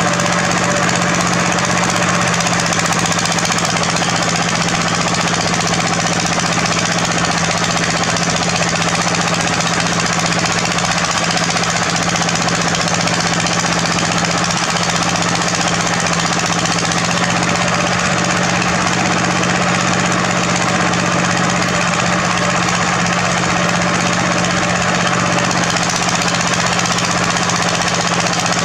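Diesel engine of heavy construction machinery running steadily and loud, with a constant low engine tone and a dense, even clatter.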